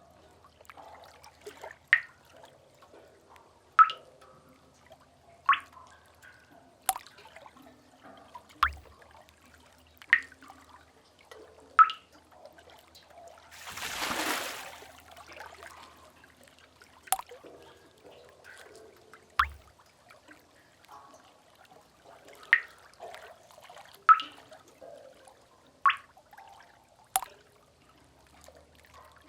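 Water drops falling one at a time into a cave pool, a plinking drip every second and a half to two seconds, over a faint low rumble. About halfway through, a wave washes in, swelling and fading over two or three seconds.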